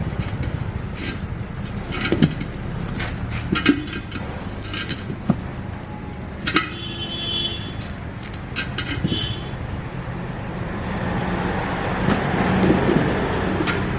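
A steady low engine hum runs under repeated sharp metal clinks and knocks, some of which ring briefly. A hiss swells in from about ten seconds in.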